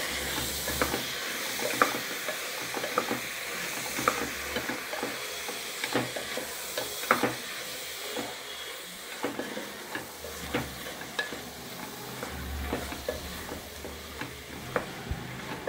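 Chopped vegetables sizzling in hot oil and ground masala in a pressure cooker as they are stirred, with the spoon scraping and knocking irregularly against the pot.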